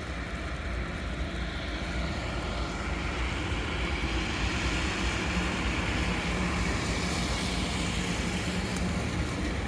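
A motor vehicle going by on a slushy, snow-covered road: tyre hiss swells from about three seconds in and eases off near the end, with a faint steady engine hum, over a constant low rumble.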